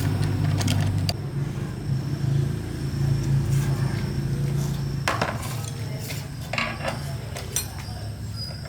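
Metal tools and engine parts clinking and knocking in several short, separate strikes, over a steady low hum that drops away about five seconds in.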